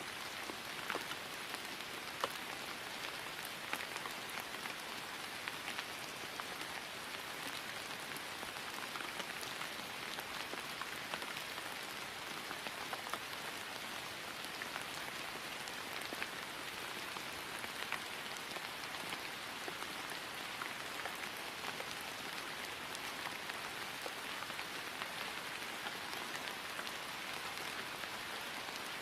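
Steady rain falling on grass, an even hiss dotted with the small ticks of individual drops.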